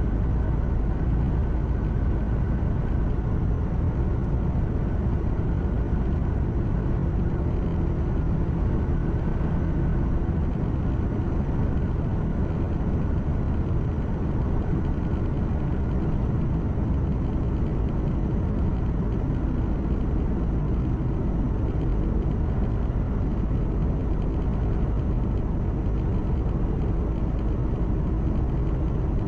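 Truck engine humming and road noise heard inside the cab as the truck drives along, a steady low rumble with no distinct events.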